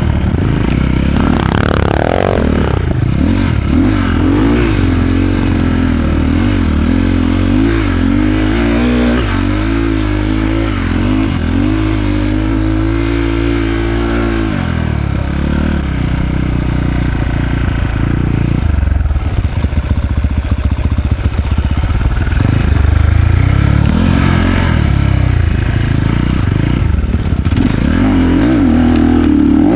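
Enduro dirt bike engine being ridden, its pitch rising and falling as the throttle is opened and closed, with some clatter over rough ground.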